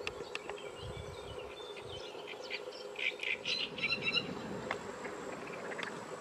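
Birds chirping in short high calls, busiest about three to four seconds in, with scattered ticks over a steady low hum.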